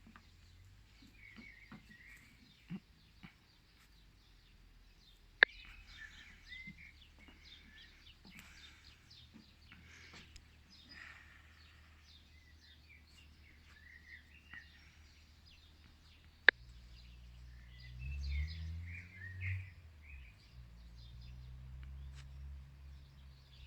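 Small birds chirping and singing in short, repeated phrases. There are two sharp clicks, and in the second half a low rumble that swells for a couple of seconds.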